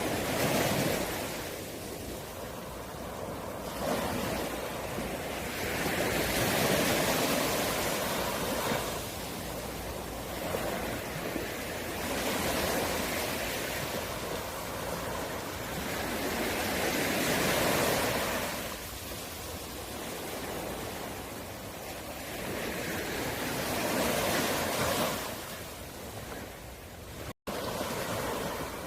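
Sea waves breaking on the shore, the surf swelling and falling back about every five or six seconds. A split-second gap in the sound near the end.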